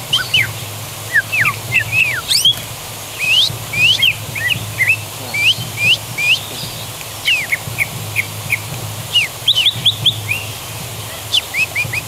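Greater green leafbird singing vigorously: a rapid string of short, sharp whistled notes, each a quick sweep up or down in pitch, delivered in bursts with brief gaps between them.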